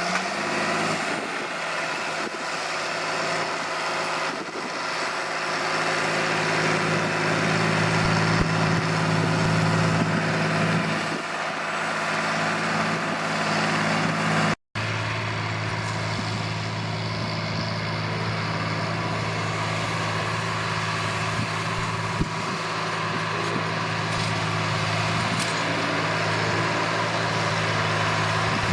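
John Deere 8400 tractor's six-cylinder diesel engine running steadily under load while pulling a disc harrow through a field. The sound drops out for an instant about halfway through, then the engine picks up again.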